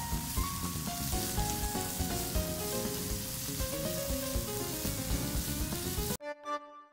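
Pork, onion and green pepper sizzling in a hot frying pan while being stir-fried with tongs. The sizzle cuts off suddenly about six seconds in.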